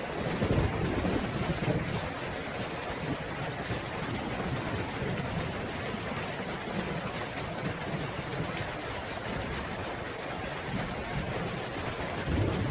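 Steady rain falling, with low rumbles of thunder about half a second in and again near the end.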